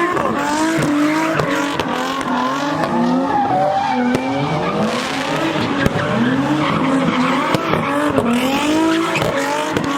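Car engine revving hard, its pitch rising and falling over and over, while the tyres squeal continuously as the car drifts or does donuts.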